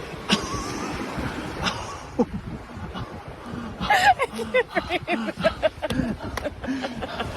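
People laughing and talking, in short bursts of voice from about four seconds in, over a noisy background.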